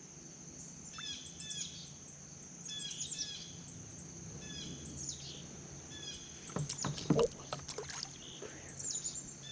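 Small birds chirping in short repeated calls over a steady high buzz, then a burst of knocks and clatter about six and a half seconds in from the kayak and fishing gear being handled.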